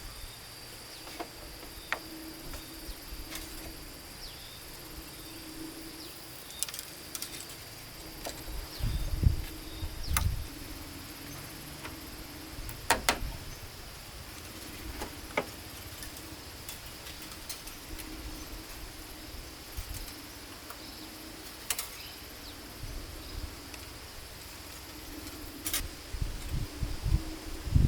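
Steady high-pitched insect calls, with scattered sharp knocks and clicks and a few dull low thumps from handling work.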